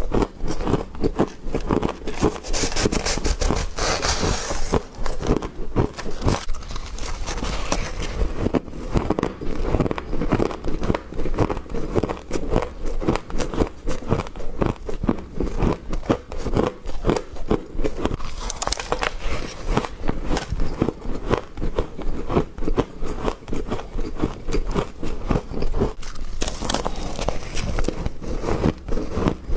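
Someone biting and crunching mouthfuls of soft freezer frost: a dense, continuous run of crackling crunches, with brighter, hissier crunches about three seconds in and again near the end.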